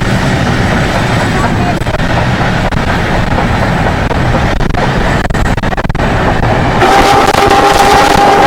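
Car driving off, with steady road and engine noise inside the cabin. Near the end the noise brightens and a steady, held multi-tone sound comes in over it.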